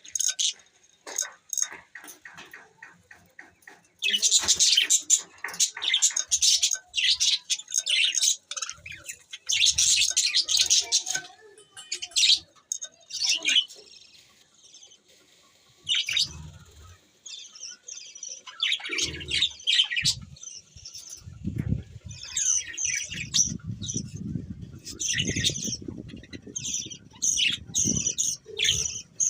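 Budgerigars chattering with rapid high chirps in dense bursts, busiest for several seconds from about four seconds in. Past the middle a low rustling noise sits under the chirping.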